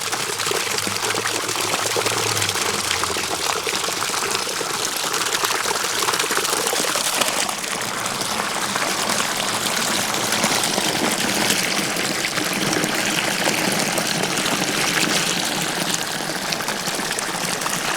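Dirty extraction water gushing out in a steady stream as a carpet-cleaning waste tank is dumped.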